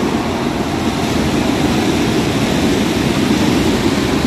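A dense fireworks barrage: many shells bursting at once, merging into a steady, loud rumble with crackle, where no single bang stands out.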